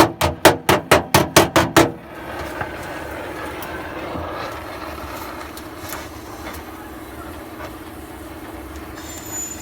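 Rapid hammer blows on car-body sheet metal, about four ringing strikes a second, stopping about two seconds in. A steady mechanical hum follows.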